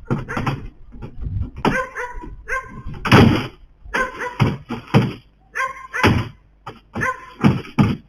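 An animal giving a rapid series of short, pitched calls, about one or two a second, with a loud heavy burst about three seconds in.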